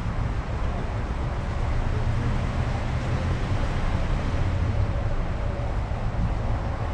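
Car driving: a steady low engine rumble with road and wind noise.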